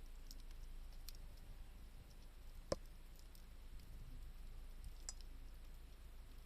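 Wood fire crackling with scattered small pops, one sharper pop a little under three seconds in.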